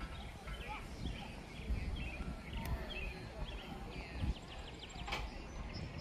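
Songbirds chirping in short, repeated phrases over a low rumble, with a sharp click about five seconds in.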